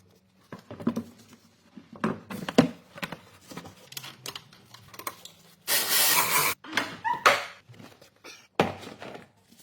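Short hiss of an aerosol silicone spray can, about a second long, with shorter squirts after it, amid clicks and knocks of parts being handled.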